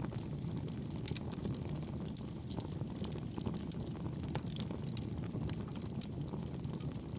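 Wood fire crackling in a fireplace: frequent small sharp pops over a steady low rush of burning.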